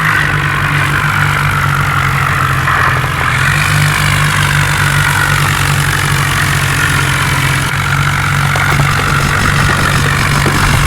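Tractor diesel engine running steadily, without a clear rise or fall in pitch.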